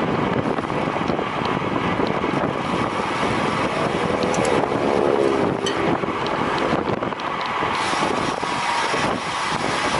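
Steady wind noise rushing over the microphone of a rider's camera moving at race speed. A faint wavering tone shows briefly about halfway through.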